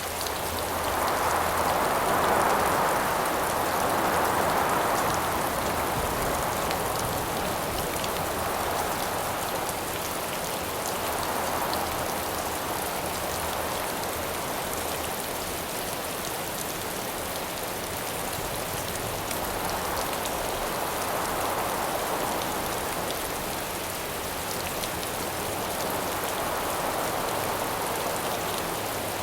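Steady rain falling, with wind swelling and easing in slow gusts; the strongest gust comes a couple of seconds in.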